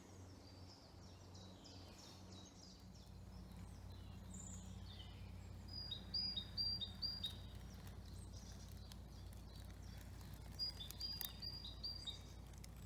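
Woodland songbirds singing: short high chirps, then two bursts of quick repeated two-pitched notes about five to six seconds apart, over a faint steady low rumble.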